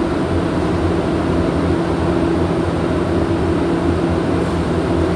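Steady mechanical drone with a low, even hum, as of machinery running continuously, without a break or change.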